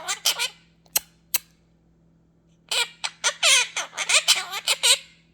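Quaker parrot squawking and chattering: a short tail of calls at the start, two sharp clicks about a second in, then a run of quick, garbled calls from nearly three seconds in until near the end.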